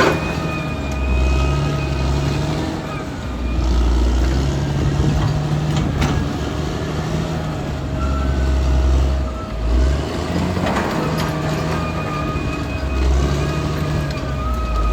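Caterpillar D6R XL bulldozer's diesel engine working, its deep rumble rising and easing every few seconds, with a steady whine above it and a few sharp metallic clanks.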